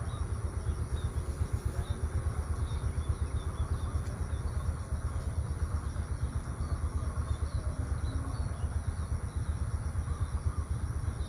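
Outdoor rural ambience dominated by a steady, fluttering low rumble, with faint short bird chirps and a steady high-pitched drone above it.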